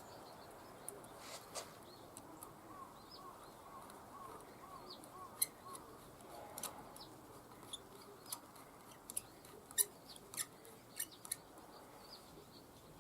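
Faint birdsong: a run of about nine quick repeated chirps in the first few seconds, with thinner high calls. From about five seconds on come scattered light clicks and taps.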